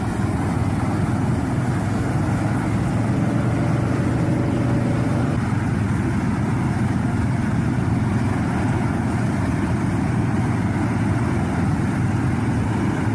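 A steady low mechanical whirring rumble from a 3D zoetrope spinning at high speed, with a faint thin tone over it for the first five seconds or so.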